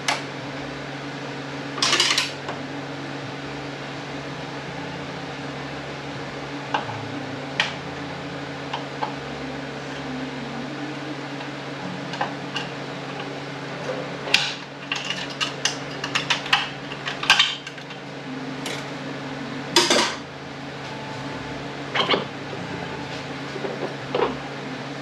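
Metal parts of an Aisin Warner A340F automatic transmission clinking and clattering as it is taken apart: a few single knocks at first, then a quick run of clinks past the middle, over a steady low hum.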